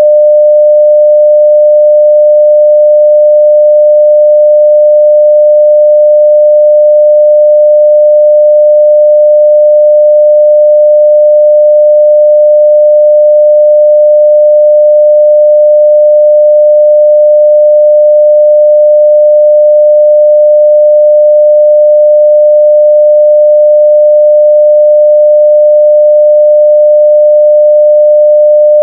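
Steady 600 Hz sine-wave test tone at full level (0 dB), one pure pitch held without change.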